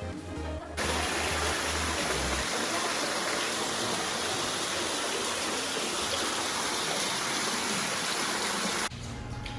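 Rushing water in a limestone cave: a loud, even rush that cuts in about a second in and stops abruptly near the end. Background music with a low beat plays at the start and returns as the water cuts off.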